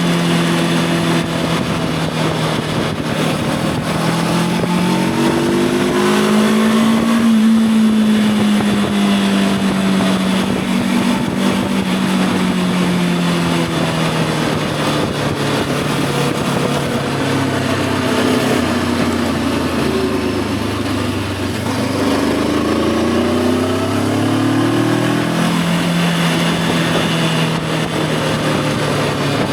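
Voge 525 DSX motorcycle's parallel-twin engine running under way, its pitch rising and falling with throttle and gear changes: the revs climb about five seconds in, ease off, sink lower in the middle, then climb steeply again a few seconds before the end. Wind and road noise run underneath.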